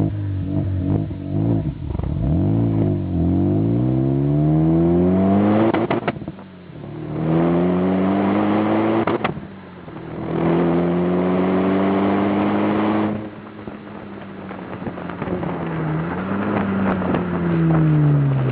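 Renault Mégane III RS 2.0 turbo four-cylinder through a Ragazzon stainless full exhaust with 70 mm pipes, revving a few times, then pulling hard with the pitch climbing through two gear changes, each a sudden drop, before lifting off about two-thirds in and blipping once more near the end.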